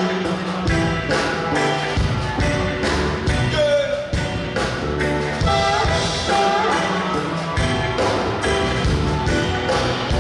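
Live band playing a loud passage without words, drums keeping a steady beat of about two hits a second under guitars and bass.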